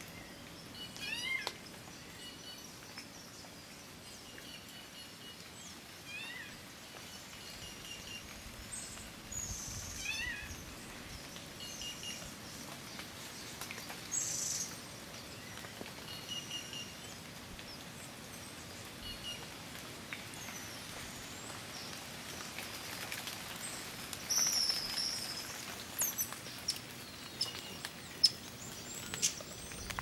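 Cloud forest birds calling: scattered short chirps, whistles and quick up-and-down notes from several birds over a faint steady background. Calls and sharp ticks come thicker and louder in the last few seconds.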